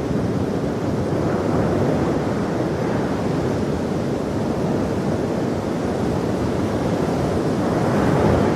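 Ocean surf: a steady wash of breaking waves, swelling louder about a second and a half in and again near the end.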